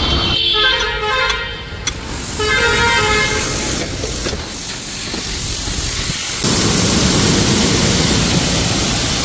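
Vehicle horn honking in several blasts over running traffic and engine noise. About six and a half seconds in, a louder steady rushing noise sets in.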